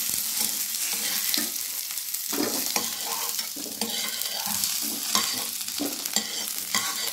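Potato pieces sizzling in hot oil in a steel frying pan while a metal spatula scrapes along the pan, scooping them up and out, with many short scrapes and clicks of metal on metal.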